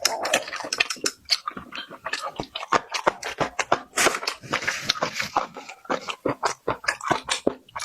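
Close-up chewing and biting of food, a dense run of crisp crunches several times a second.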